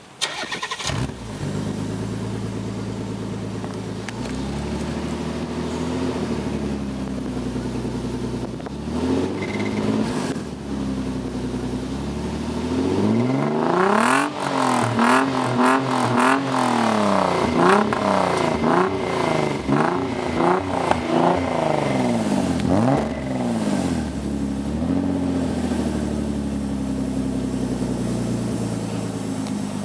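Naturally aspirated Nissan 300ZX's 3.0-litre V6 through an X-Force exhaust. It comes in suddenly at the start and idles. Through the middle it is revved again and again in quick rises and falls, then settles back to a steady idle.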